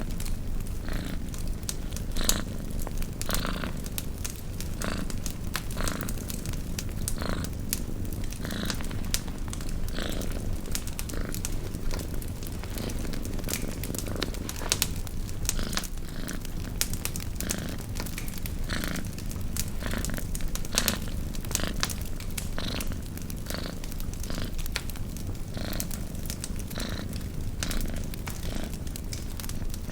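Domestic cat purring steadily, swelling and easing with each breath, over campfire crackle: frequent sharp pops and snaps.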